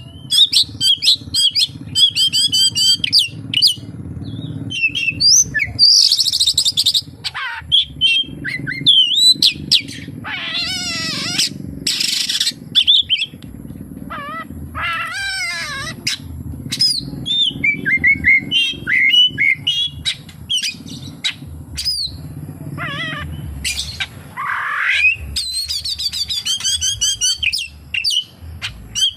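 Oriental magpie-robin (kacer) singing a long, varied song of whistles, rapid trills and chattering phrases, packed with 'isian' (phrases mimicked from other birds), over a steady low hum.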